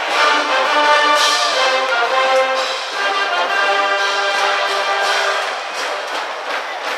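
High school brass band playing a baseball cheering tune, with trumpets and trombones holding and changing notes over sharp percussive hits.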